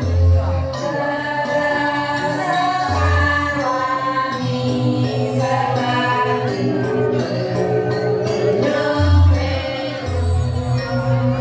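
Balinese Janger song sung by a group of voices together, with deep low beats now and then and sharp percussion strokes beneath.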